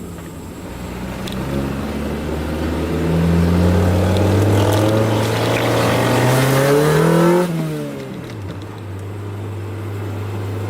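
Honda F22B1 2.2-litre SOHC VTEC four-cylinder accelerating hard, its revs climbing steadily for about five seconds. The throttle then closes about seven and a half seconds in, and the revs fall quickly and settle into a steady low drone. It runs through a leaking exhaust.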